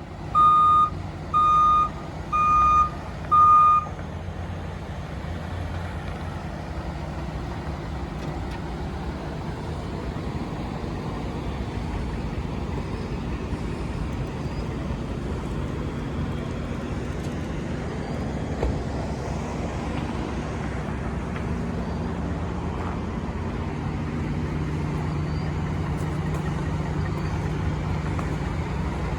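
Four short beeps at one steady pitch, about one a second, then the 2018 Ford F-150's 5.0-litre V8 gas engine running steadily, a little louder near the end.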